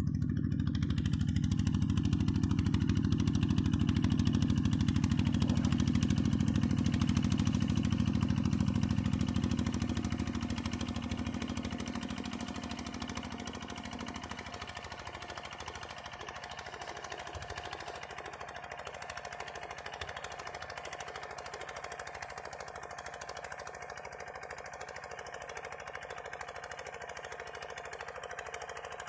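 Diesel engine of a Cambodian two-wheel walking tractor running with a fast, even firing beat. It is loud for the first ten seconds or so, then quieter from about halfway.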